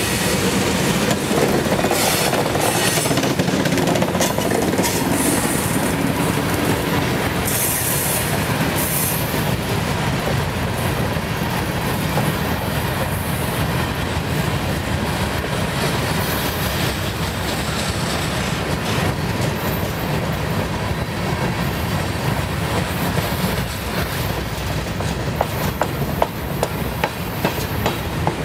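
Freight cars of a CSX train rolling past: a steady rumble of steel wheels on rail, with clicks over the rail joints that stand out sharper near the end.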